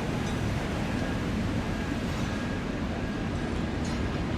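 Steady, low rumble of vehicle road and traffic noise, with no distinct events.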